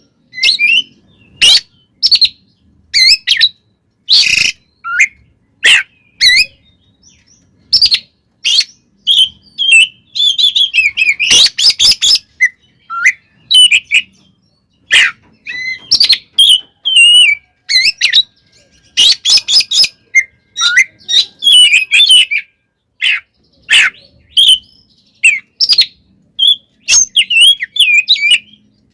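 Oriental magpie-robin (kacer) singing its agitated fighting song: loud, rapid bursts of varied whistles and harsh rasping notes separated by short pauses, with denser runs of notes about a third of the way in and again about two-thirds through.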